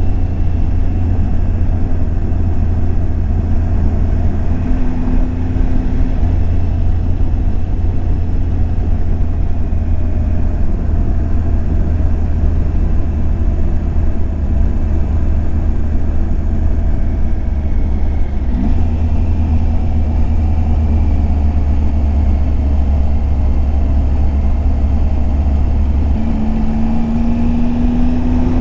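Triumph Tiger 800 XCX's inline-three engine running steadily under way. Its note shifts in pitch about five seconds in, again around eighteen seconds, and near the end.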